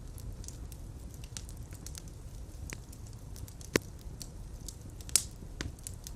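Fire in a fireplace crackling over a steady low rumble, with scattered small pops and two louder sharp pops, one a little past the middle and one about five seconds in.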